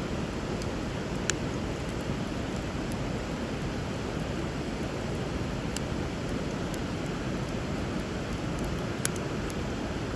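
Steady rush of river water, with a few sharp pops of a wood bonfire crackling: three clear ones, about a second in, near the middle and near the end.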